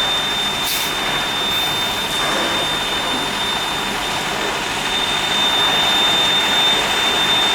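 Steady loud rushing noise with a thin, high-pitched whine running through it.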